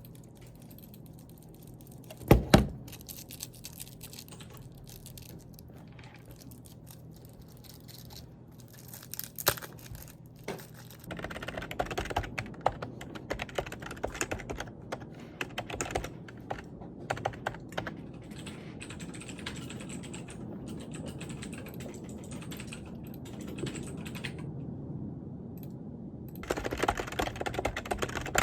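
Typing on a computer keyboard: a fast, uneven run of keystroke clicks that starts about a third of the way in and gets louder near the end. A sharp double knock comes a couple of seconds in, before the typing.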